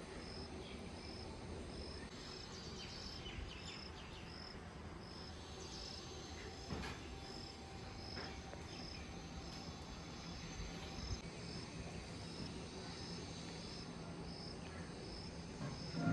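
Insect chirping steadily in a high, even pulse about twice a second, over faint outdoor background noise.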